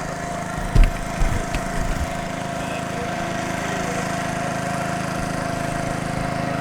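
Houseboat's engine running steadily, a low drone with a steady whine over it, with a few low knocks in the first two seconds.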